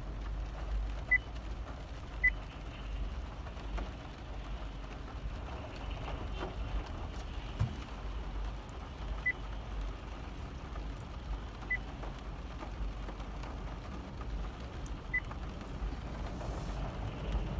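Steady low rumble of a vehicle, with a few short high-pitched beeps at irregular intervals, two of them in the first two seconds.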